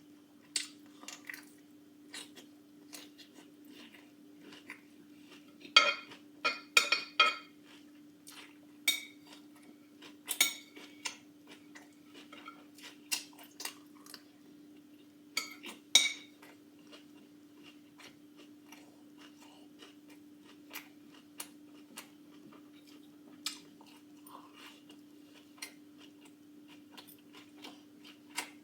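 A fork clinking and scraping against a dish as salad is eaten, in scattered sharp clicks with a busy cluster about six to seven seconds in, over a steady low hum.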